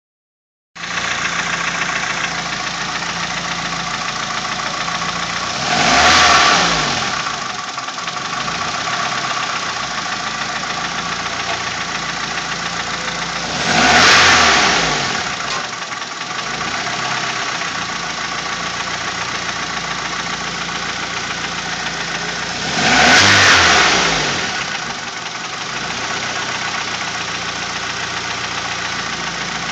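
Nissan GA16DE twin-cam 16-valve four-cylinder engine idling cold, revved three times; after each rev the engine speed falls back and sags briefly below its steady idle before recovering, the rpm drop on cold start.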